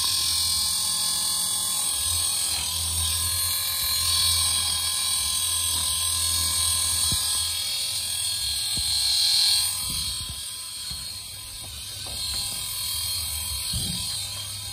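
Small electric motor of a homemade can airplane running steadily with a buzzing whir, dipping in level for a couple of seconds about ten seconds in.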